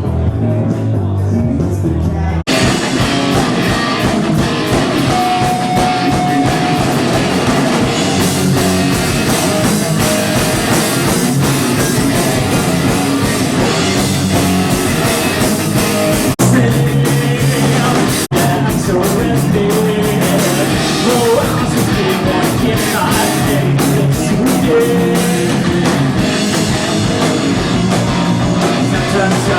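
A rock band playing live and loud: a low bass-heavy intro, then drums, cymbals and guitars come in together about two seconds in, with a couple of short breaks in the middle.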